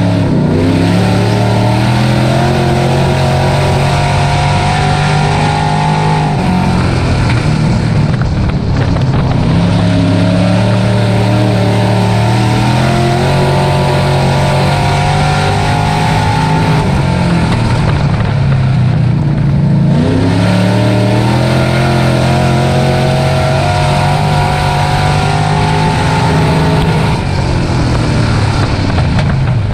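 Dirt race truck's engine under racing load, held at high revs, its pitch climbing, then dropping back sharply about every seven to eight seconds before building again, as the throttle comes off for the turns and back on out of them.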